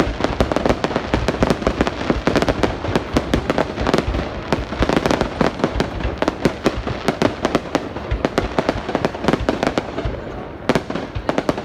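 Fireworks going off in a dense, rapid barrage of bangs and crackles, thinning to a few scattered reports near the end.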